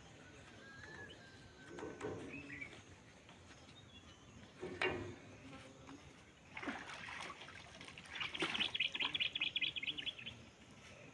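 Outdoor birdsong: thin whistled chirps, then a loud fast chirping trill, about ten notes a second, lasting about two seconds near the end. A few brief splashing noises come from laundry being washed by hand.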